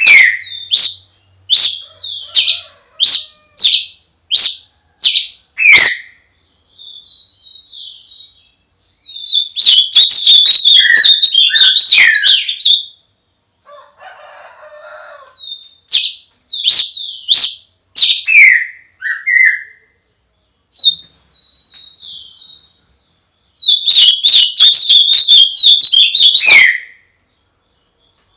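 A songbird close to the microphone, first giving a series of sharp, quickly falling chirps, then bursts of fast, dense twittering song with gaps between.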